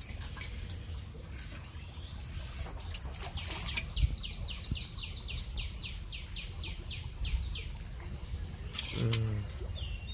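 A bird gives a fast trill of about fifteen short falling notes, a few seconds in, over a steady high whine. Scattered sharp taps and clicks, and a brief low sound near the end.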